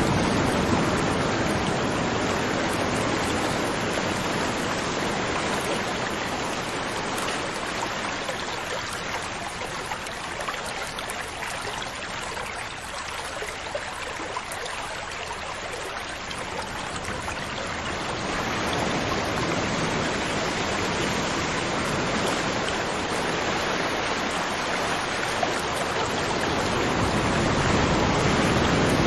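River water flowing over rocks in a steady rushing wash. It eases off slightly midway and swells again near the end.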